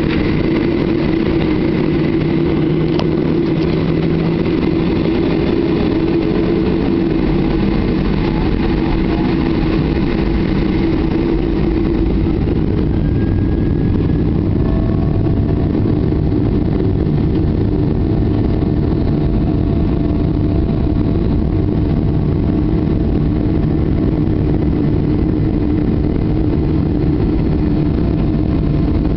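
Boeing 737-800's CFM56 jet engines running steadily at low thrust, a constant hum with several steady tones; a higher tone joins about halfway through.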